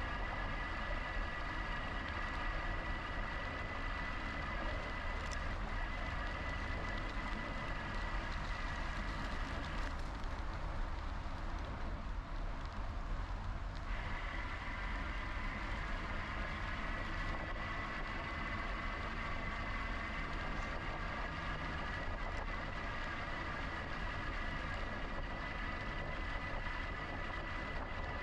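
GoCycle GX electric bike's motor whining steadily under pedal assist over a constant low rush of wind and tyre noise. The whine cuts out for about four seconds partway through, then picks up again.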